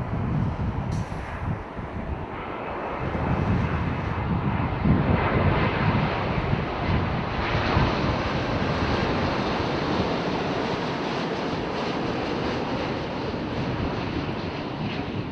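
Jet engine noise from a Boeing 787-8 airliner's Rolls-Royce Trent 1000 turbofans, rising over the first few seconds and then holding steady, with wind buffeting the microphone.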